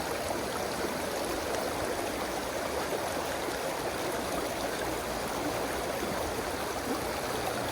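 Mountain stream water rushing steadily over rocks, an even, unbroken sound.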